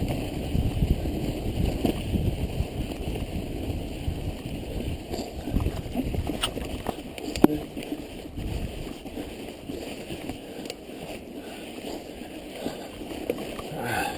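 Mountain bike riding through snow: a steady rough rumble of tyres on snowy trail and wind on the microphone, with a few sharp clicks and knocks from the bike. The rumble eases a little after about halfway.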